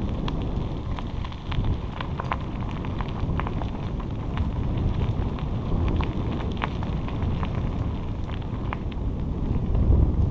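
Wind rumbling on the microphone over bicycle tyres rolling along a trail, with irregular small clicks and crackles throughout.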